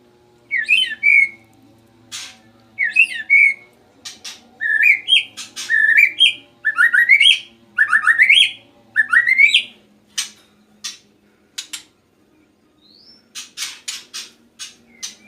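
Male white-rumped shama (murai batu) in full, loud song after a sauna warming session: a run of repeated rising whistled phrases for about ten seconds, then a string of sharp clicks and short notes near the end.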